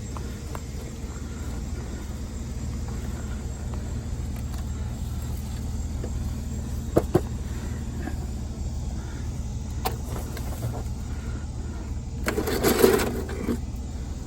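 Steady low rumble of a running vehicle engine, with two sharp knocks about seven seconds in and a short clatter of scrap metal being handled near the end.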